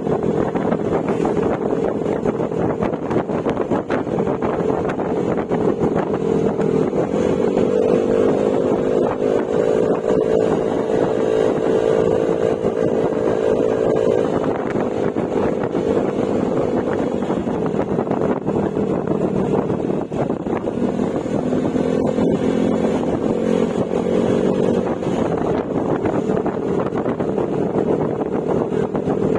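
Yamaha Mio Gravis scooter's single-cylinder engine running under way through an aftermarket Akrapovic exhaust with silencer. The engine note rises about seven seconds in, holds, and eases off after about fourteen seconds, then climbs again briefly past the twenty-second mark.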